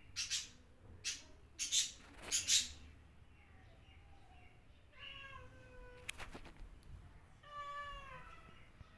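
Pet animal calls during a cat and parrot standoff: four short harsh, noisy bursts in the first three seconds, then two falling, meow-like calls about five and seven and a half seconds in.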